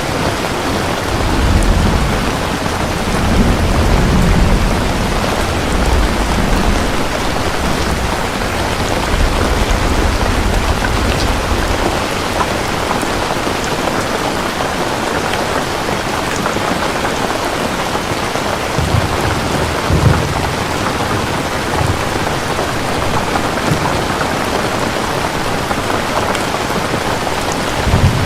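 Steady heavy rain with thunder rolling deep and low through the first twelve seconds or so, rumbling again briefly around twenty seconds in and once more near the end.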